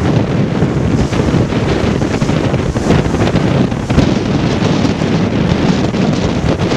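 Strong wind of about 23 to 25 knots buffeting the microphone on a sailboat under sail, with waves and water rushing past the hull. Steady and loud throughout.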